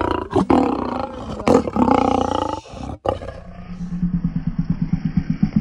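A lion growling loudly at close range with its teeth bared. After a brief break about three seconds in, it gives a lower, pulsing growl.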